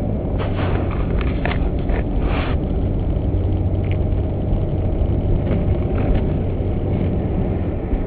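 Car driving, heard from inside the cabin: a steady low engine and road rumble, with several short knocks or scrapes in the first few seconds and a few more later.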